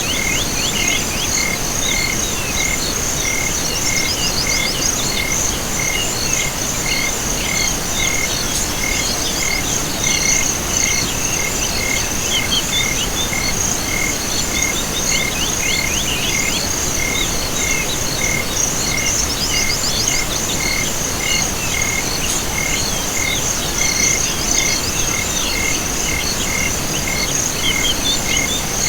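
Night chorus of insects and frogs: a steady high trill, a short call repeating evenly about twice a second, and recurring bursts of quick chirps over an even hiss.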